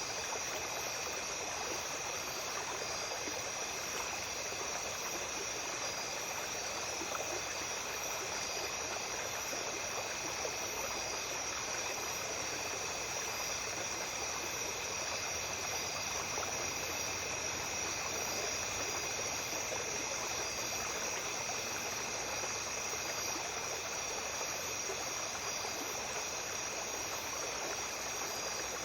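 Small stream babbling steadily over stones at night, with insects chirring continuously in a few steady high-pitched tones above the water.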